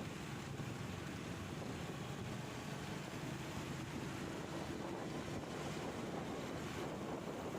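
Wind rushing over the microphone on a moving motorcycle, with the motorcycle's engine running steadily underneath.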